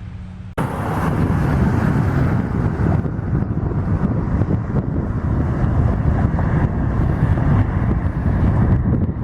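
A steady low hum breaks off abruptly about half a second in. Loud wind rumbling and buffeting on the microphone takes its place.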